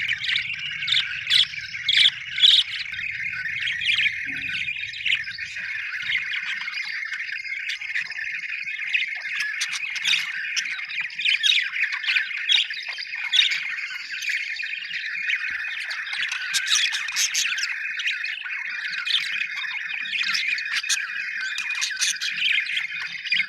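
Budgies (budgerigars) chattering and warbling without a break, with many short sharp chirps mixed in.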